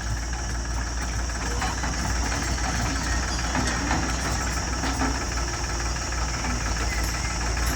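A tractor's diesel engine running steadily.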